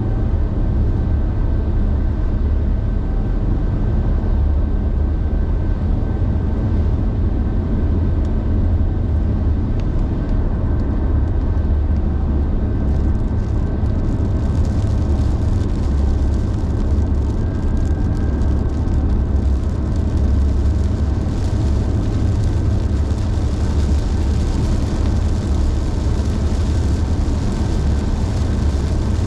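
A car driving at speed on a wet highway in heavy rain: a steady low road and engine rumble, joined about halfway through by a higher hiss of rain and tyre spray that grows louder.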